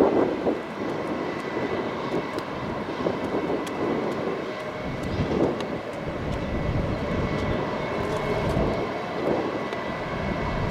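Airplane engine noise: a steady rushing drone with a faint high whine running through it.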